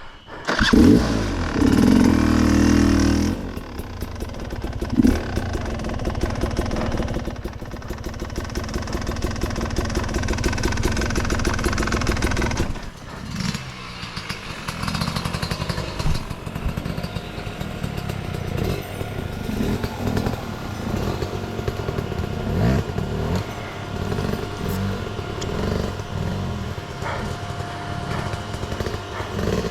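Enduro motorcycle engine revving hard off-road. It comes in loud about half a second in, eases off briefly near the middle, then keeps rising and falling with the throttle, with some clatter.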